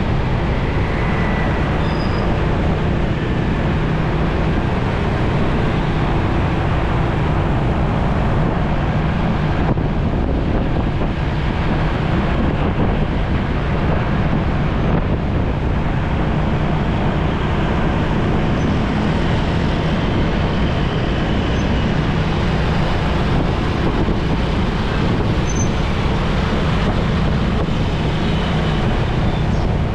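Motorcycle being ridden through road traffic: a steady mix of engine and road noise.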